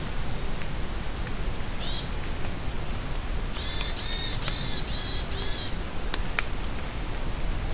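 Steady rain falling in a forest, with a few sharp drips. A bird gives a single harsh, rasping call about two seconds in, then a run of four in quick succession; other birds add faint, brief high chirps.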